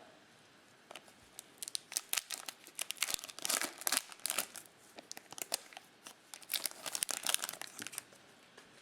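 A trading-card pack's wrapper being torn open and crumpled, crinkling in quick crackly runs, busiest about halfway through and again near the end.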